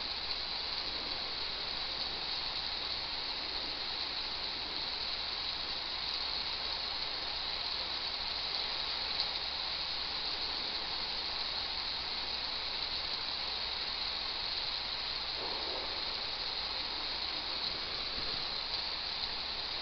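Steady rain ambience: an even, unbroken hiss, brightest in the upper register.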